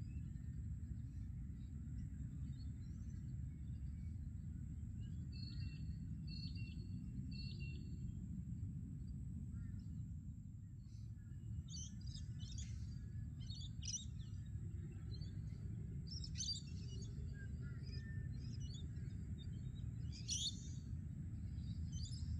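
Birds chirping and calling in open parkland: three short repeated calls about six seconds in, then scattered chirps in the second half, over a steady low rumble.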